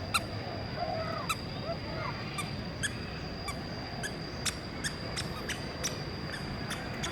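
Birds calling: a few short, arching honk-like calls in the first two seconds, with sharp chip-like clicks scattered throughout over a steady high whine.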